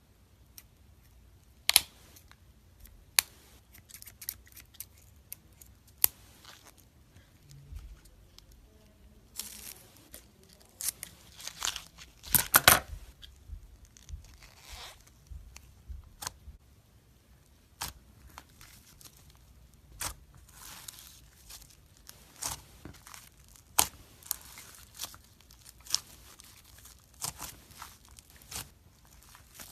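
Slime-filled stress ball being cut open: an irregular run of sharp snips and short tearing, crinkling sounds, with a longer, louder stretch of tearing about twelve seconds in.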